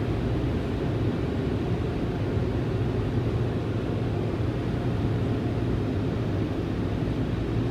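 Steady low rumble and hiss of car wash machinery heard from inside a car's cabin, unbroken throughout, with a strong low hum underneath.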